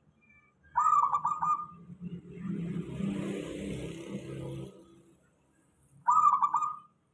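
Zebra dove (perkutut) cooing: two short bursts of its rapid, stuttering coo, one about a second in and one near the end. Between them a rumbling noise with a hiss runs for a couple of seconds.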